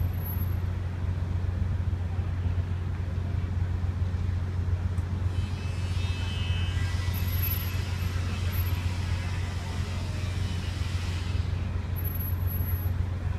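Steady low drone of a ferry's engines, with a rushing hiss that rises about five seconds in and fades shortly before the end.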